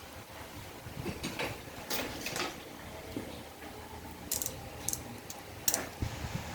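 Scattered metallic clicks and clinks of hand tools working on a Ford 5R55S automatic transmission while its oil pump is being removed.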